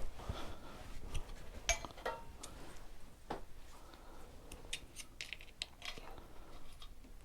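Hand tools clinking against metal engine parts: scattered light clicks and taps, with one sharper knock near the middle, as the top end of the engine is worked on.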